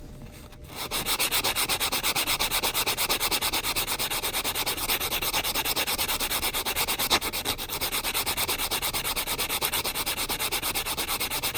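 Nail file board rubbed quickly back and forth across the rough cut edge of a metal coin ring to smooth it. The strokes are fast and even, about six a second, and start about a second in.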